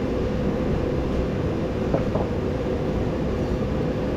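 A steady low mechanical drone with a faint constant hum, and a brief click about two seconds in.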